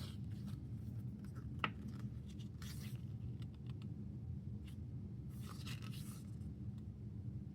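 Photobook pages being turned and handled: a few short, soft paper rustles and slides, with one sharp click about a second and a half in, over a steady low hum.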